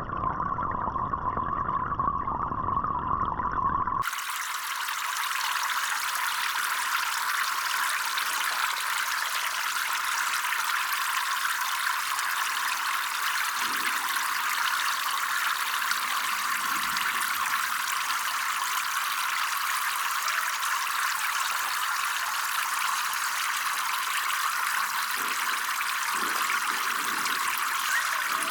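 Running water trickling and splashing in a steady hiss. The sound changes abruptly about four seconds in, from a fuller, lower sound to a thinner, brighter one.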